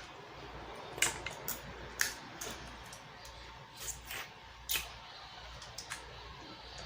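Snow crab leg shells being cracked and snapped apart while eating: a handful of sharp, separate cracks and clicks spread over several seconds, with quieter wet eating sounds between them.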